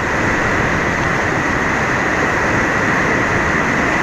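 River rapids: whitewater rushing loud and steady over a drop.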